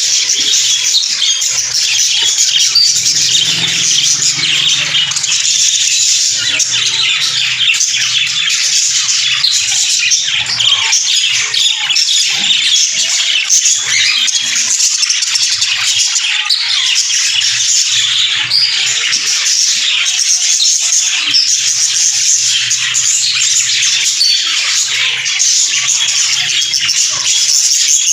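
A flock of caged budgerigars and cockatiels chattering and squawking together in a continuous, loud din of quick overlapping chirps.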